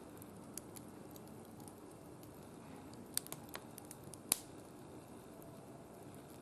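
Wood fire burning in a barbecue grill, crackling with scattered sharp pops over a low steady hiss; the loudest pops come around three seconds in and just past four seconds.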